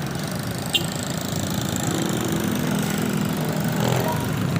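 A small engine idling steadily close by, with a short click about a second in.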